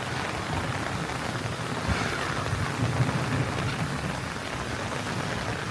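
Steady rain falling, an even hiss of raindrops on the ground and surfaces.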